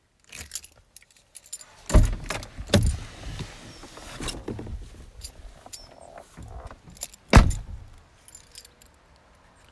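Keys jangling as the key is handled at the ignition of a VW T6 California van, with handling noise and a heavy thump about two seconds in as the driver's door is opened and he climbs out. About seven and a half seconds in, the van's driver's door shuts with a loud thump.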